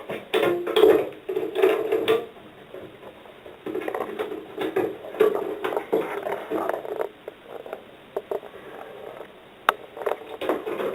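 Irregular knocking, rattling and rustling of small model boat sections being handled and fitted with rubber bands, with a few sharp clicks near the end.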